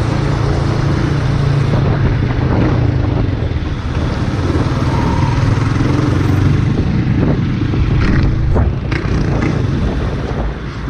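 Motorcycle engine running steadily while riding, with wind rushing over the microphone and a few clattering knocks near the end.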